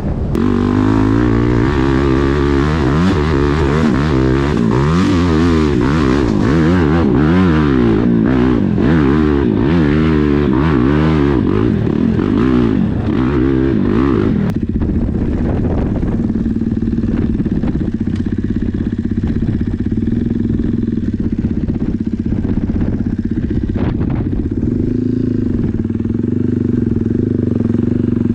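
Dirt bike engine being ridden hard over rough ground, its revs rising and falling quickly as the throttle is worked, with clattering from the bike. About halfway through the engine note settles to a steady, lower speed.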